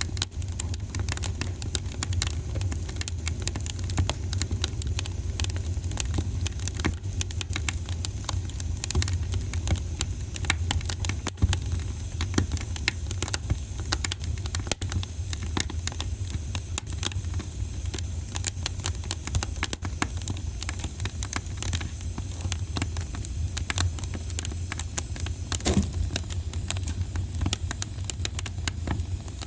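Wood fire in a fireplace crackling, with many small, irregular pops over a steady low rumble.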